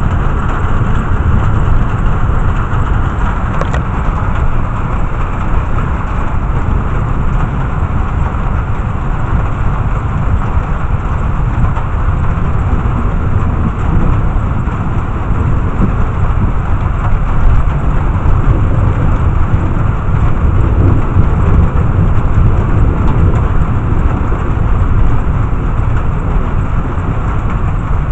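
Thunderstorm: steady heavy rain with a deep, continuous rumble underneath.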